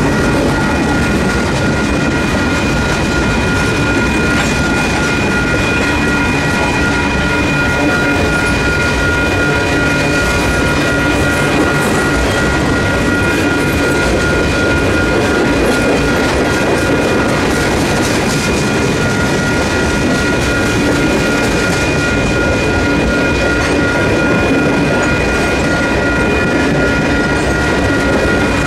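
Freight cars of a Union Pacific manifest train, boxcars and then tank cars, rolling steadily past with continuous rail noise and frequent wheel clicks. Over it, the crossing's WCH electronic bells keep ringing with the gates down.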